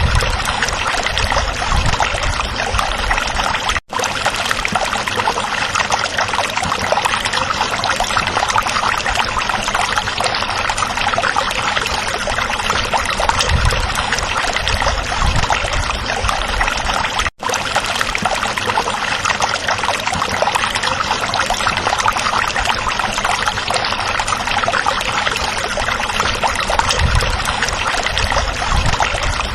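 Stream water trickling and babbling steadily. It cuts out briefly to near silence twice, about four seconds in and again just past the middle.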